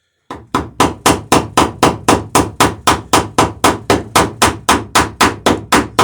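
Hammer peening a copper boat rivet against a backing block, quick even strikes about four a second, spreading and rounding the rivet's head.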